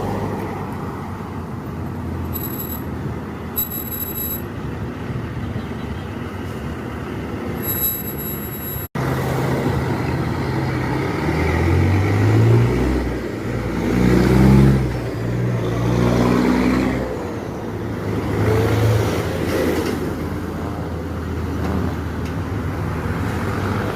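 Kenworth W900 semi truck's diesel engine running steadily, with a few short high beeps. About halfway through it pulls away and works up through the gears, its pitch rising and dropping several times with the shifts, then settles into a steady run.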